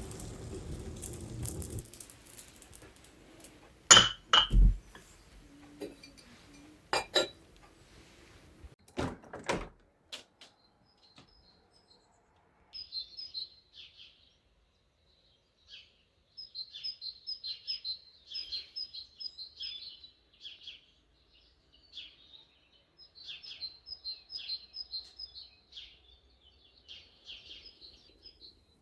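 A few sharp knocks in the first third, the loudest about four seconds in. From about halfway, a small songbird chirps in bursts of fast repeated high notes.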